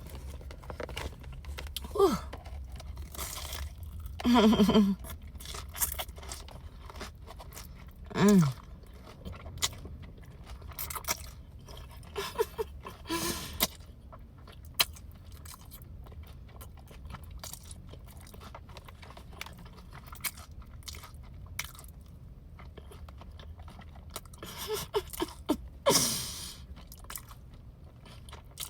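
A person biting into and chewing crunchy breaded, fried mozzarella sticks, with crisp crunches on and off. A few short falling hums of reaction come between bites.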